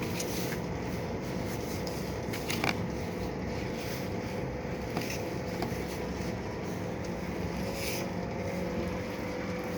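Seshimo Kikai Kogyo thick-sheet and cardboard slitter running steadily with a motor hum, with a few short clicks, the loudest about two and a half seconds in.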